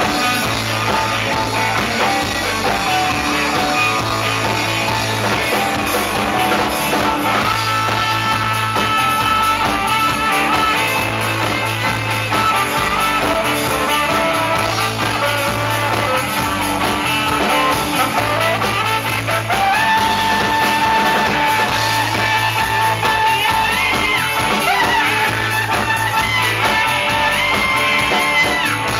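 Rock music played by a band: guitar over a bass figure that repeats about every two seconds, with long held melody notes on top.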